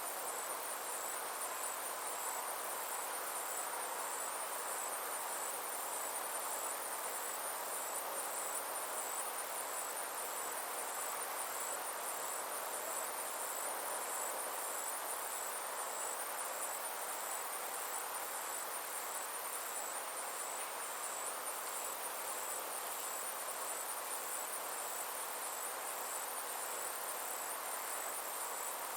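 Insects trilling steadily in a fast, even, high-pitched pulse, over a soft steady hiss.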